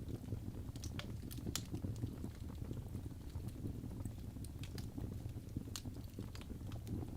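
Wood log fire burning: a steady low rumble of flames with scattered sharp crackles and pops from the logs, a cluster of them about a second in.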